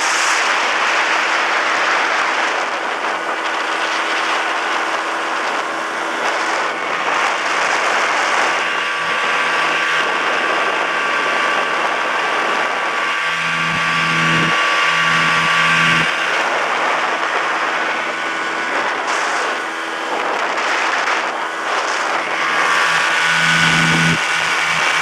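Vikhr-M 25 hp two-cylinder two-stroke outboard motor running steadily, its note shifting deeper for a couple of stretches.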